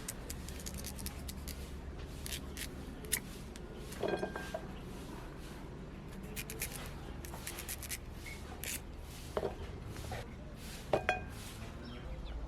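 Scattered sharp clicks and clinks of hard objects being handled, irregular and a few louder than the rest, over a low steady hum.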